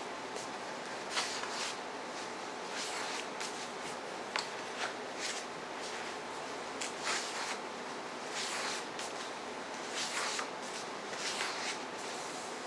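Paper being handled as a box-set book's pages are turned: irregular soft rustles and brushes, about a dozen in all, over a steady background hiss.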